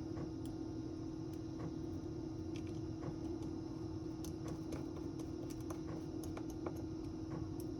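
Light, irregular clicks and taps of small tools and phone parts being handled during a smartphone repair, over a steady background hum.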